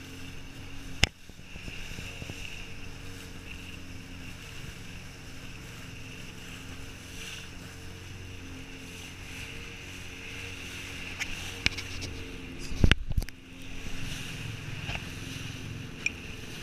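Jet ski engine running steadily under wind and water noise. A sharp knock comes about a second in, and a cluster of knocks and a louder low thump come about three-quarters of the way through.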